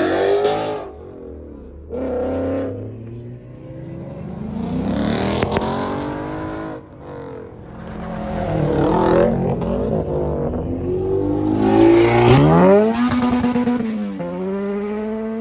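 Cars accelerating away one after another, their engines revving up in pitch and dropping back at each gear change. The loudest is a hard rev about twelve seconds in that climbs and then holds.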